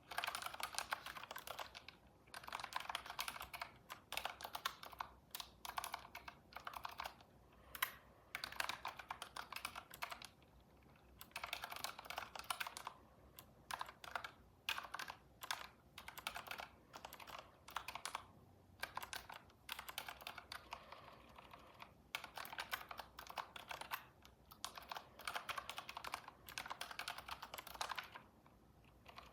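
Computer keyboard typing in quick runs of keystrokes, broken by short pauses every few seconds.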